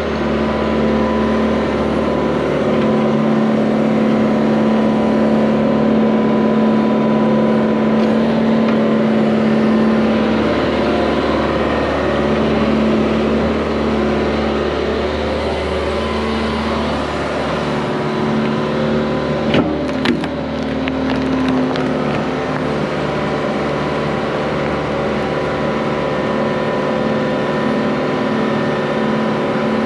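Excavator's diesel engine running steadily under load while it digs, with a few short knocks about twenty seconds in.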